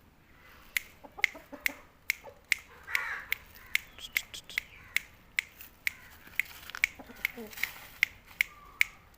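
A run of sharp clicks or taps, two or three a second, starting about a second in. Between them come a few faint clucks from an Aseel rooster.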